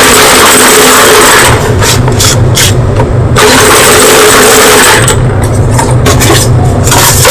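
White school chalk being crunched very close to the microphone, a loud dense crackling that thins twice for a second or two, leaving a low hum.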